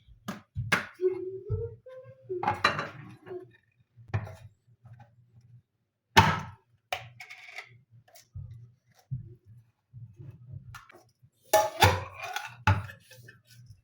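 Dishes and cutlery being handled, a series of separate sharp clinks and knocks. The loudest comes about six seconds in, with a busy cluster near the end.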